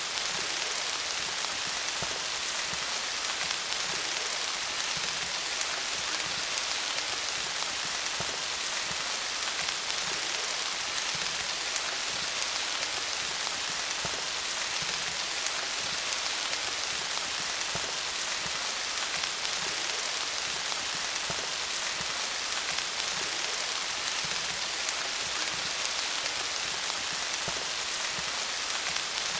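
Steady rain falling on leaves, a continuous hiss of many small drop patters with no let-up.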